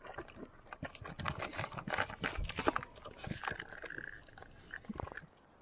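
Busy, irregular clicks and knocks of things being handled, with a short high squeak about three and a half seconds in.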